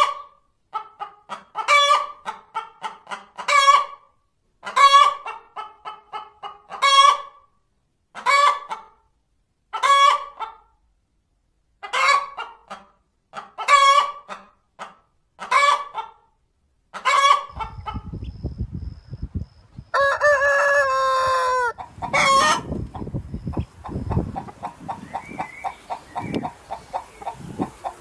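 A hen cackling, runs of quick clucks each ending in a louder squawk about every two seconds, the call hens give after laying an egg. A little past halfway this gives way to a noisier recording in which a rooster crows once and other chickens call.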